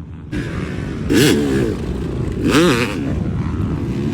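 Yamaha YZ250 single-cylinder two-stroke dirt bike engine running, revving up sharply and dropping back twice, about a second in and again near the middle.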